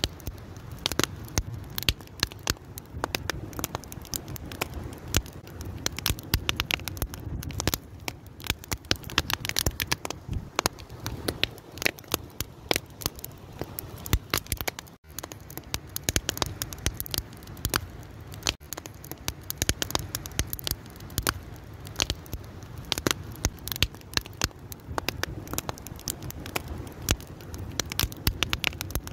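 Fire crackling, with many irregular sharp pops over a steady low rush of flame; a split-second dropout about halfway through.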